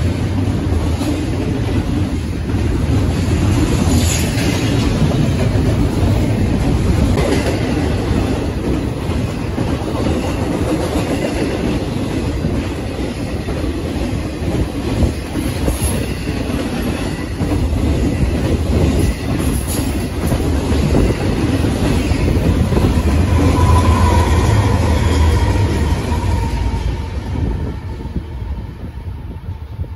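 A train rolling past, a steady heavy rumble of steel wheels on rail with clattering over the rail joints. A brief high squeal from the wheels comes about three-quarters of the way through, and the sound falls away near the end.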